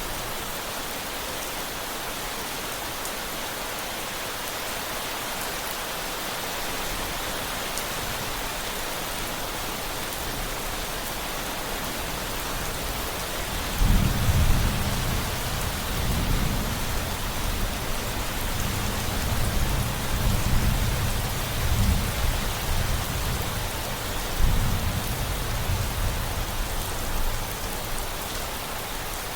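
Steady rain falling, with a roll of thunder that breaks in suddenly about halfway through and rumbles low in several swells before dying away near the end.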